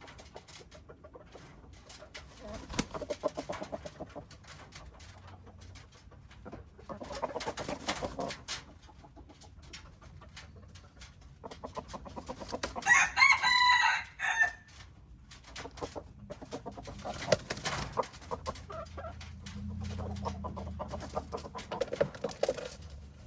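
Chickens clucking at intervals, with a rooster crowing once about midway, a call of about two seconds that is the loudest sound.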